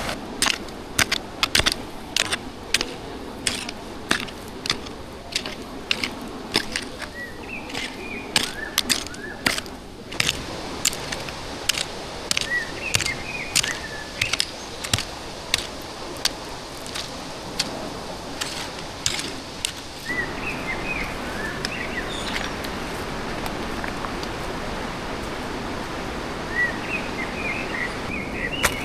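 Steady rush of a fast-flowing stream, with sharp knocks at about two a second for the first twenty seconds and a few more near the end, and short bird chirps now and then.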